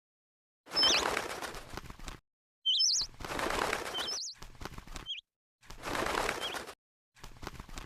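A small bird giving short, sharp chirps over a rustling noise, heard in several stretches of one to two seconds that cut off abruptly into dead silence.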